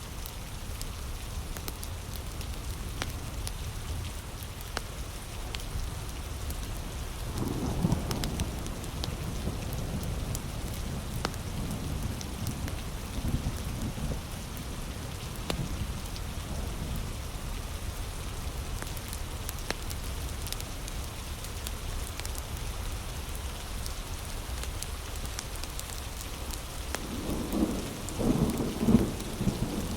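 Heavy rain falling steadily, with scattered sharp clicks. Low thunder rumbles about a quarter of the way in and again, louder, near the end.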